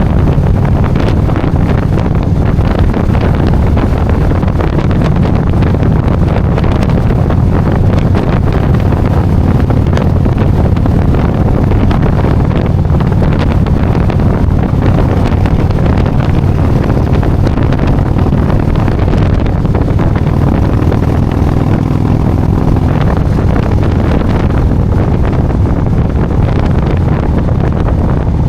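Motorcycle engine running steadily at cruising speed, under heavy wind rushing over the microphone.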